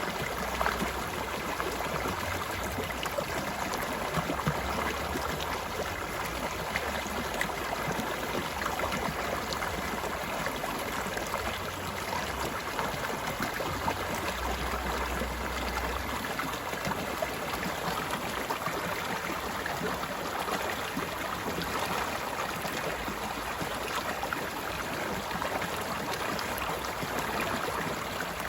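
Mountain stream running steadily over rocks, an even rushing and gurgling of water.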